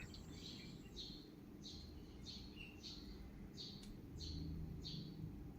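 A small bird chirping over and over, faint: about eight short, high chirps, each falling slightly in pitch, one every two-thirds of a second.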